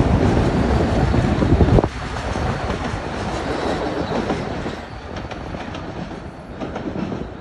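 Metro-North M8 electric commuter train passing below and pulling away: a loud rumble of wheels on the track drops off suddenly about two seconds in, then fades, with wheels clicking over rail joints.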